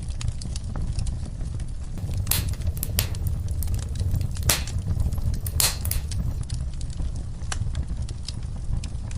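Wood fire crackling in a fireplace: a steady low rumble of flames under constant small crackles, with a few louder sharp pops from about two to six seconds in.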